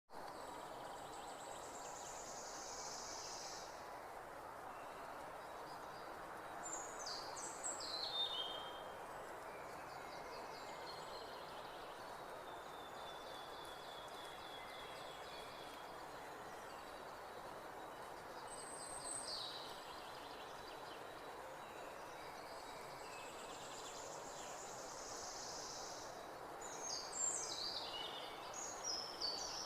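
Birds singing: high chirps and short falling phrases, loudest about seven seconds in and again near the end, over a steady hiss of background noise.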